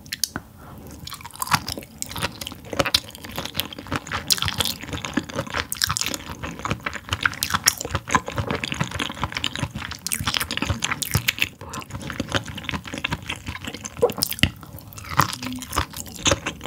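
Close-miked wet chewing of sea anemone: a dense, unbroken run of sticky, squishy mouth clicks.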